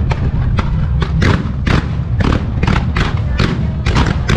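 Fireworks shells bursting in quick succession, about two sharp bangs a second, in a music-synchronised starmine barrage, over music and a continuous low rumble.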